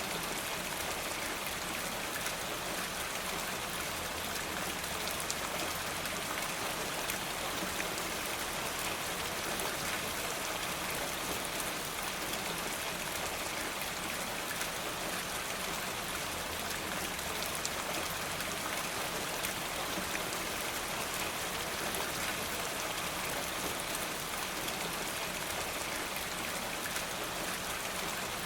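Steady rain falling: a dense, even hiss thick with small drop ticks that does not let up.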